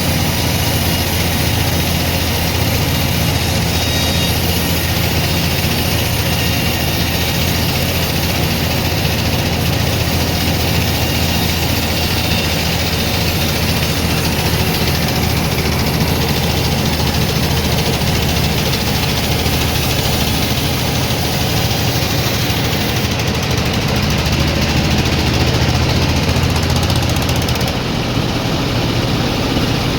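Sawmill machinery running: a steady, loud motor hum with a broad mechanical noise over it. The sound changes character about two-thirds of the way through and again shortly before the end.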